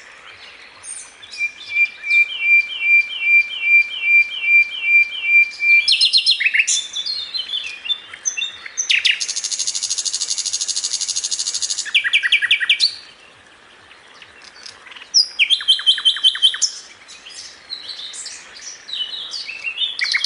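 Songbird masteran (tutor) recording: a varied, rapid string of high chirps, trills and rattles. A run of about ten evenly repeated sharp notes, roughly two a second, comes a second or so in, and a harsh buzzing stretch of about three seconds comes halfway through.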